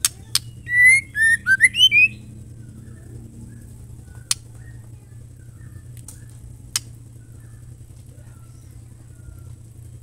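Female white-rumped shama giving a short burst of loud whistled notes that rise and fall, over about the first two seconds, followed by a few single sharp clicks a second or more apart.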